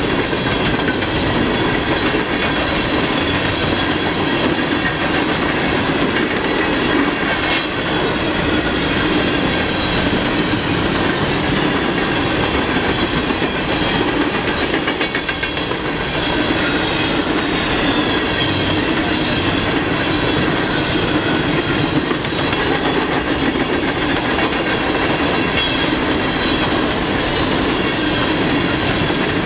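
Empty coal cars of a freight train rolling past, the wheels clacking steadily over the rail joints, with a faint high-pitched wheel squeal running underneath.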